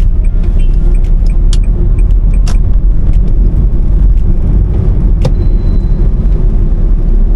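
A car being driven: steady low rumble of engine and road noise heard from inside the car, with a few sharp clicks or rattles, the clearest about one and a half, two and a half and five seconds in.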